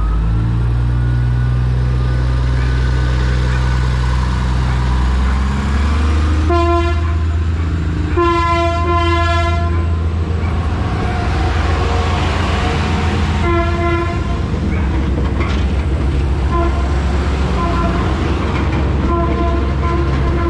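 Philippine National Railways diesel commuter train passing close by, its engine droning steadily under the noise of the wheels on the rails. The horn sounds three times, short, long and short, about six and a half, eight and thirteen and a half seconds in.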